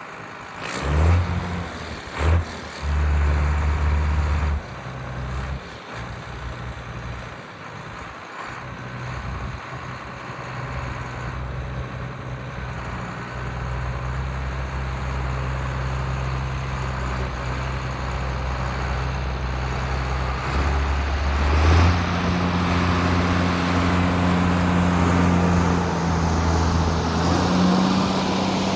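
John Deere 8450 tractor's six-cylinder diesel engine running under way as the tractor drives, with two loud knocks early on. A little past two-thirds of the way through, the engine note steps up to a higher pitch as it speeds up.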